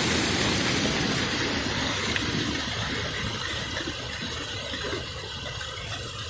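Flooded waterfall rushing over rocks: a steady roar of water that grows quieter from about two and a half seconds in.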